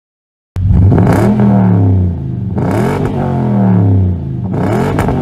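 Cadillac Escalade's 6.2-litre V8 engine revved in three quick blips, the pitch sinking back toward idle after each. It starts abruptly about half a second in.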